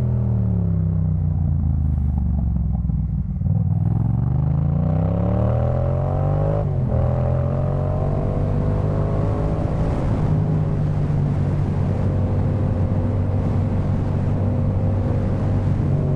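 Yamaha MT-07's parallel-twin engine breathing through a Jeskap K4 full exhaust while riding. The revs fall for about three seconds, climb hard, break briefly for a gear change about seven seconds in, climb again, then settle into a steady cruise.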